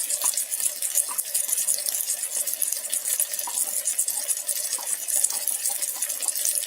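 Tomato and vegetable mixture with spices frying in hot oil in an electric kettle: a steady, dense sizzling hiss with fine crackle and a few light clicks.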